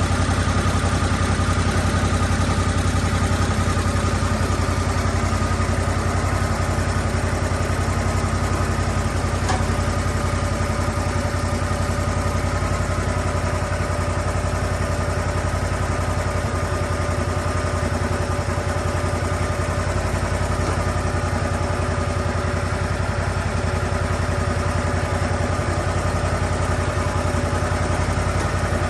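Lucas Mill 10-30 portable swingblade sawmill's petrol engine running at a steady speed, with one faint tick about nine seconds in.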